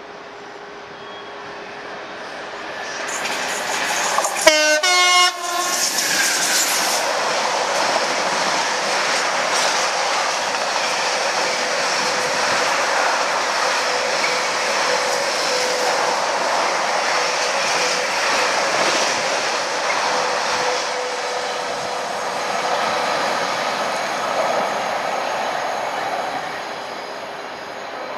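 A Class 66 diesel locomotive sounds its horn briefly, about four and a half seconds in. It then passes hauling an intermodal freight train, and the wagons make a long steady rumble on the rails that eases off near the end.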